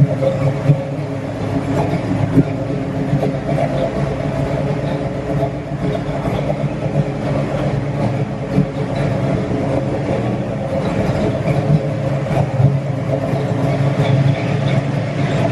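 1970 Ford Mustang Fastback's 302 V8 idling steadily, with the choppy "ra, ra, ra" idle the owner puts down to its performance camshaft.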